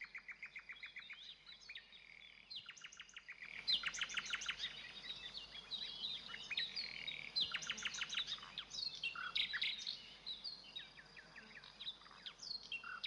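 Songbirds singing: fast runs of repeated notes and trills, varied phrases overlapping, growing louder and busier about three seconds in.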